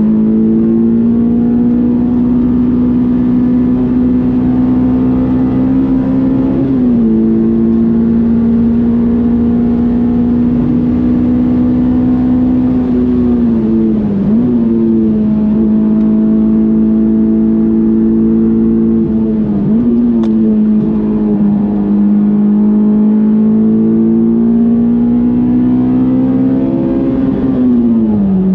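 Honda S2000's 2.2-litre F22 four-cylinder engine pulling hard from inside the cabin. Its pitch climbs slowly and then drops sharply about every six to seven seconds.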